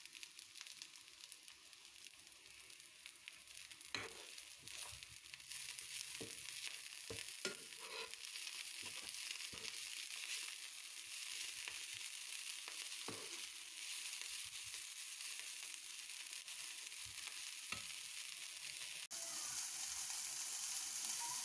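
Chopped wild greens sizzling as they sauté in a pan, with the knocks and scrapes of a utensil stirring them between about 4 and 13 seconds in. The sizzle grows louder, stepping up sharply near the end.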